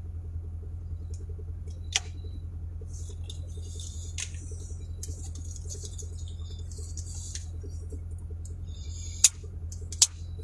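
Steady low hum inside a parked, running vehicle, with three sharp clicks: one about two seconds in and two about a second apart near the end, as buttons in the cab are pressed.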